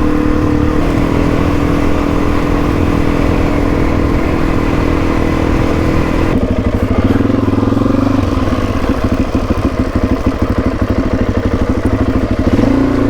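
Suzuki DR-Z400E's single-cylinder four-stroke engine running while riding. About six seconds in the pitch drops suddenly to a slower beat of separate firing pulses, then rises briefly near the end.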